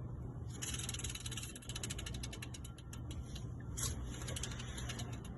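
A failing belt-pulley bearing being spun by hand with the serpentine belt off, giving a rapid, uneven clicking rattle that starts about half a second in: the bearing is worn out and coming apart inside.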